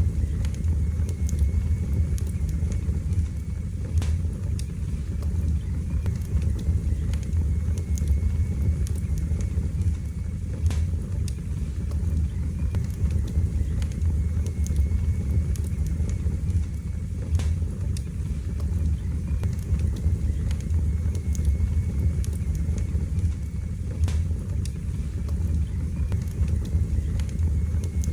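Wood fire burning in a fireplace: a steady low roar of the flames with occasional sharp crackles and pops from the burning wood.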